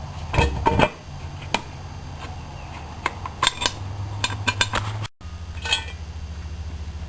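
Metal clinks and knocks of hand tools being worked on an old stationary engine, a few sharp strikes scattered through, over a steady low hum.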